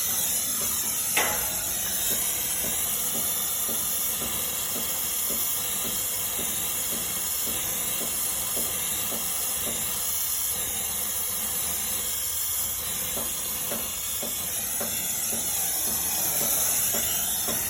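Brazing torch flame hissing steadily on copper refrigerant pipe, with a sharp click about a second in.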